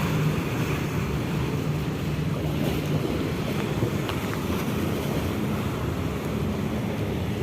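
Strong wind rushing over the microphone, with sea waves washing and a steady low hum underneath.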